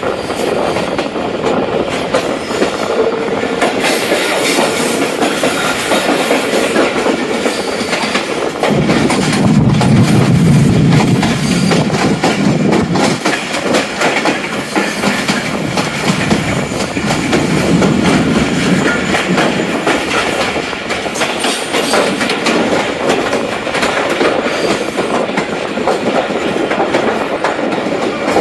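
Passenger train running at speed: the coach's wheels clatter over the rail joints under a steady rush of running noise, with the low rumble swelling louder twice, about a third of the way in and again past halfway.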